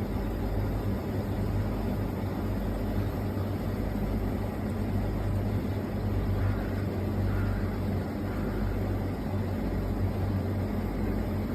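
Steady low rumble with a constant low hum, even in level.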